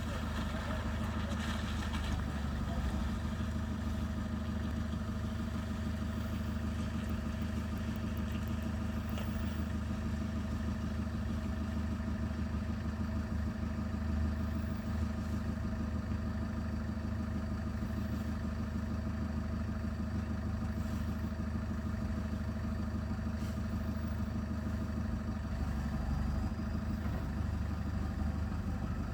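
Engine of road-paving machinery running steadily at idle, a constant low hum.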